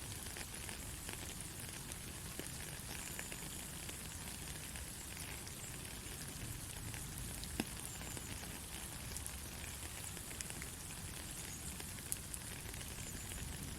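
Steady rain falling in a forest, a constant hiss with scattered sharp drop ticks. A faint short high chirp recurs every few seconds.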